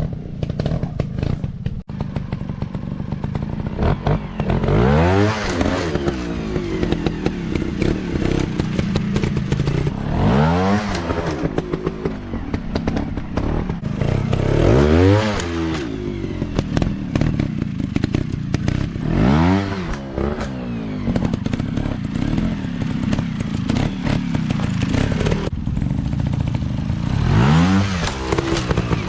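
Small dirt-bike engines running continuously, revving up and dropping back five times, roughly every four to five seconds, with some clattering underneath.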